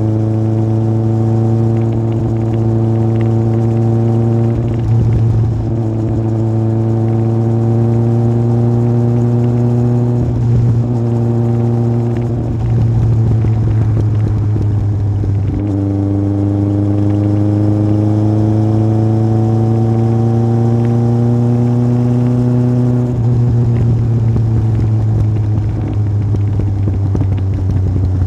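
Yamaha Fazer 1000's inline-four engine through a MIVV aftermarket exhaust, ridden on the road. The revs climb slowly and drop back several times, and the exhaust note stays loud and steady.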